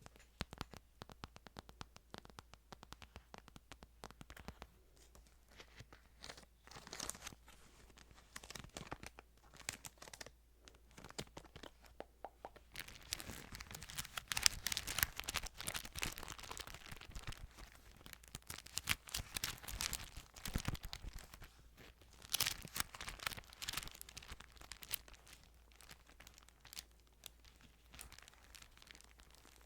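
Thin Bible pages crinkling and rustling as they are handled and turned, a dense crackle that grows busier through the middle of the stretch.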